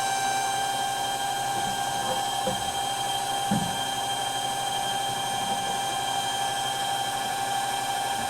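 Small electric water transfer pump running, a steady high motor whine as it draws water through a hose from one tank into another. A couple of faint knocks come about two and a half and three and a half seconds in.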